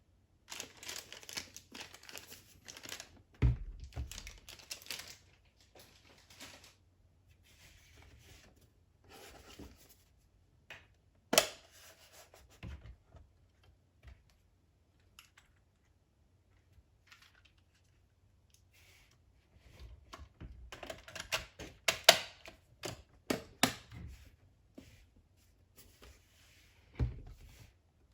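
Hands handling the label printer and its packaging: intermittent rustling of plastic and paper with small plastic clicks and a few sharper knocks, busiest at the start and again about two-thirds of the way through, quieter in between.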